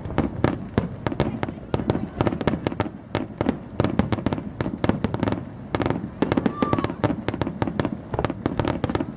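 Fireworks display: a dense, unbroken run of sharp pops and bangs, several a second.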